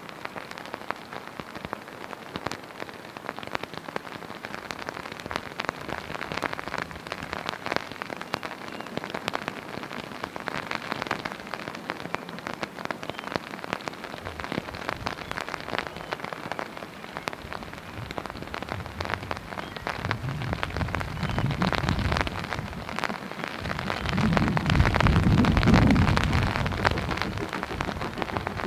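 Steady rain pattering, with many sharp drop clicks close by. A low rumble swells in the last third, loudest a few seconds before the end.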